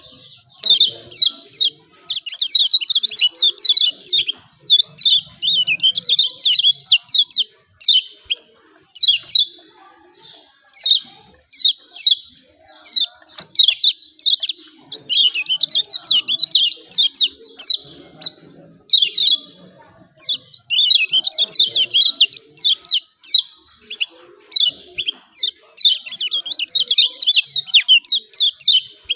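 Kecial kuning (yellow-spectacled white-eye) giving excited 'ciak ciak' chirping: fast, high twittering phrases in runs of a second or two with short pauses between them.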